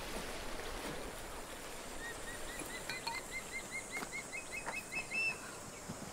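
A bird calling a quick series of short, evenly spaced notes, about four or five a second, from about two seconds in and lasting some three seconds, over a steady outdoor background hiss.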